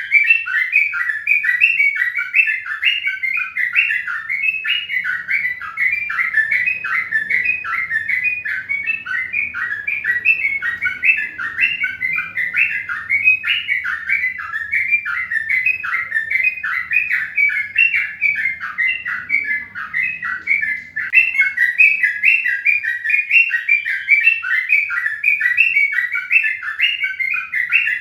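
Birds chirping rapidly and continuously, several short chirps a second with no pause.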